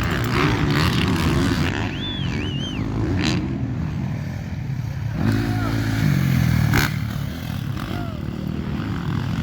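Motocross dirt bike engines running and revving on the track, with one bike getting louder about five seconds in and falling away again about seven seconds in.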